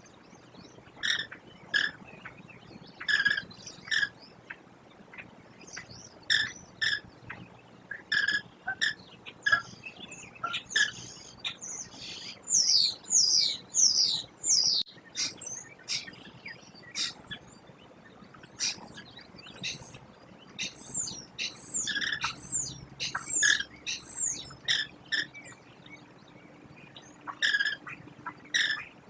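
American kestrels calling at the nest: a long series of short, sharp, high calls that come in clusters, with two stretches of quicker runs of calls.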